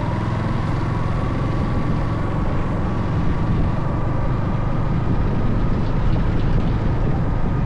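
Motorcycle running steadily on the move: a constant low rumble with a faint whine that rises slightly in pitch.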